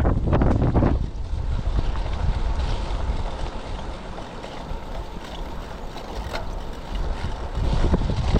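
Strong typhoon wind buffeting the microphone in heavy, rumbling gusts, loudest in the first second and again near the end, easing in between.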